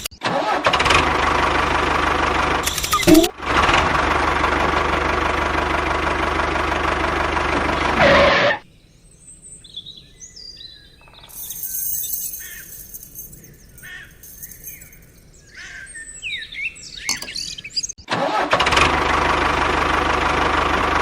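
A motor running steadily, briefly broken about three seconds in. It stops a little after eight seconds, giving way to quieter scattered sounds, and starts running again near the end.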